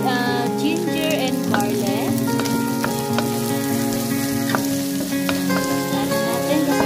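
Pork with garlic, ginger and onion frying in butter in a pan, a steady sizzle, under a pop song with singing.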